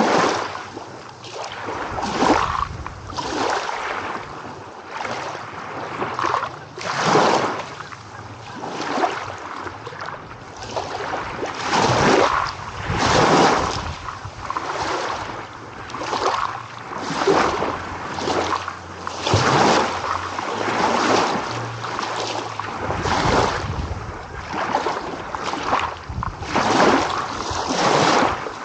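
Small ocean waves washing in one after another: rushing surges of water, about one every second or two, rising and falling with no pause between them.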